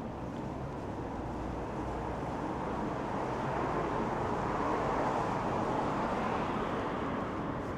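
A road vehicle passing on a city street: a steady hiss of tyres and engine that swells to a peak about five seconds in, then fades.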